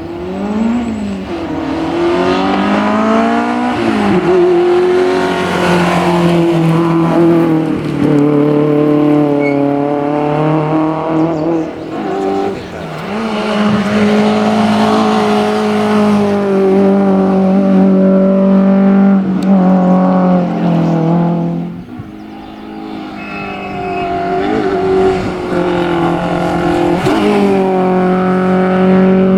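Citroën AX hillclimb race car's engine revving hard up the climb. Its pitch repeatedly climbs and then drops sharply at each gear change, with a brief lull about two-thirds of the way through before it pulls hard again.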